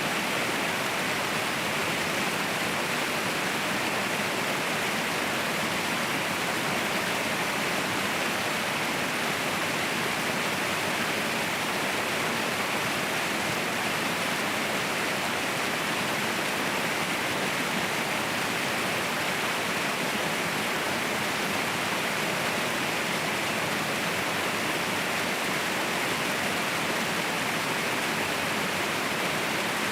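Waterfall rushing in a steady, unbroken roar of falling water, strongest in the upper middle and thin in the bass.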